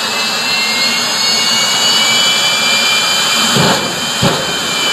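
Jet truck's jet engine running with a loud, steady high-pitched whine; two short low thumps come near the end.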